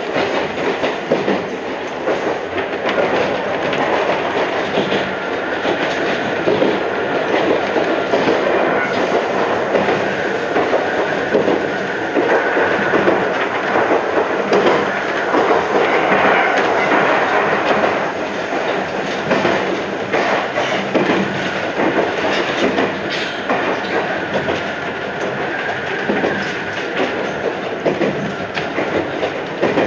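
Iyotetsu 3000 series electric commuter train (a former Keio Inokashira Line car) running along the line, heard from inside the front of the train. Steady running noise, with the clickety-clack of the wheels over rail joints.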